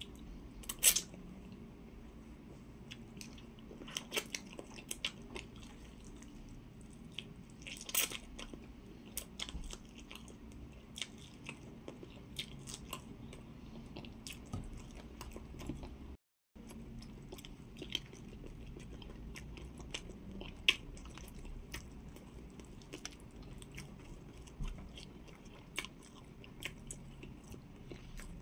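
Close-miked chewing and biting while eating amala, okra soup and roasted chicken by hand, with many sharp crunchy clicks and a few louder crunches. The sound cuts out briefly about halfway through.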